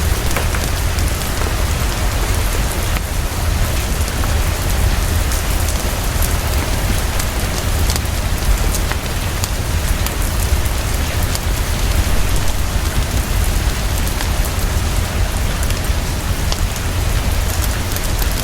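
Heavy, fast, steady rainfall with a constant deep rumble underneath and scattered small sharp clicks throughout.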